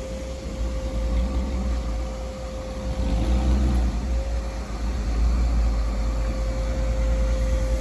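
Vacuum cleaner running steadily, its motor giving a constant whine over a low rumble.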